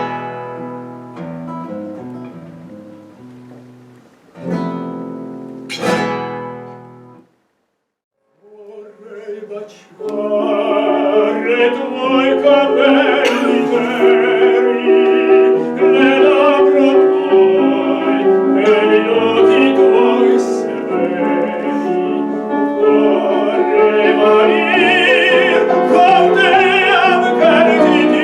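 Acoustic guitar ending a piece with strummed chords left to ring out, then about a second of silence. From about ten seconds in, a classical song starts: a voice singing with vibrato over piano accompaniment.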